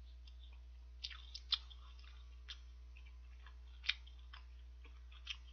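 Chewing a mouthful of boiled dumplings: a few short mouth clicks, the loudest about a second and a half in and near four seconds, over a steady low hum.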